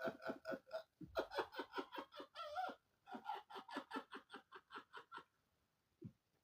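A person laughing hard in rapid, high-pitched bursts, in three long runs with short breaks between, dying away about five seconds in, followed by a short catch of breath near the end.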